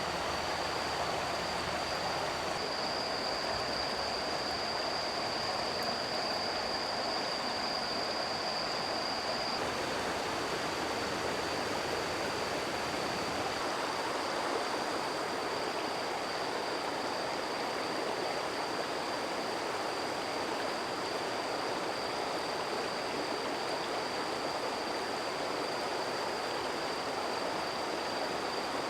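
Steady rushing of a flowing stream, with a thin, high-pitched tone held steadily above it.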